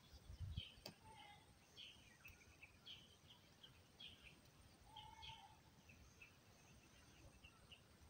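Faint birds chirping: many short high chirps scattered throughout, with a short lower whistled note about a second in and again about five seconds in. A low thump near the start and a sharp click just before a second in.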